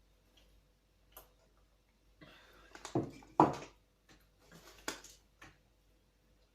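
Handling noises: scattered small clicks and taps with a short stretch of rustling, the loudest a pair of knocks about three seconds in.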